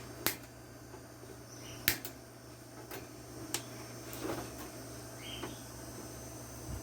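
Scattered sharp clicks and light knocks of an electric fan's plastic parts being handled and taken apart by hand, over a steady low hum.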